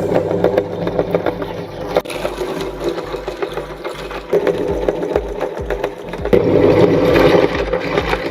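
Electric meat grinder motor running steadily, getting louder about six seconds in.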